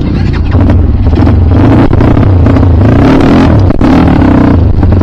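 Kawasaki KLX dirt bike's single-cylinder engine revving hard under load. The pitch rises and falls as the throttle is worked, and it gets louder about half a second in.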